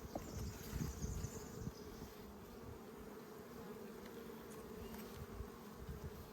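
Honeybees buzzing in a steady hum over an open nucleus hive, the colony calm during inspection.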